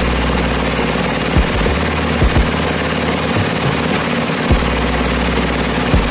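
Well-drilling rig machinery running: a steady engine noise with a low hum that cuts in and out, and several sharp knocks at uneven intervals.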